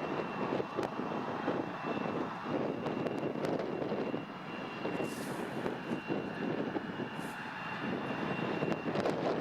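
Airliner engines: a steady rushing noise with a thin, high steady whine over it that dies away near the end.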